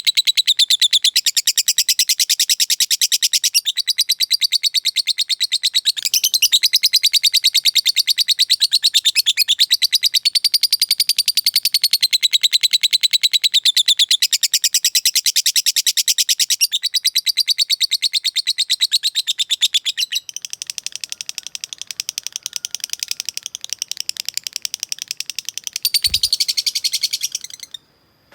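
Lovebird singing its ngekek, one long unbroken run of rapid, high chattering notes. It thins out about twenty seconds in, swells again briefly, then cuts off abruptly just before the end.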